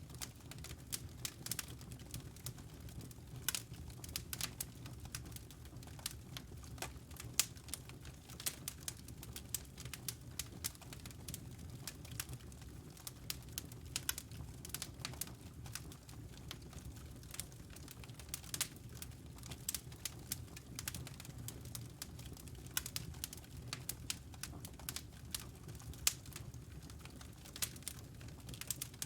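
Fireplace fire crackling, with irregular sharp pops and snaps over a low steady rumble of the flames.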